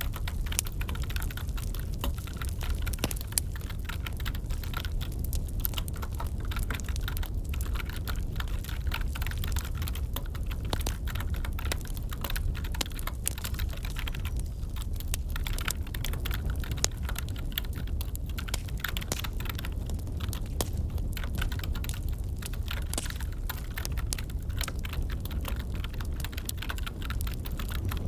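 Computer keyboard typing in quick, irregular clicks over a crackling wood fire with a steady low rumble.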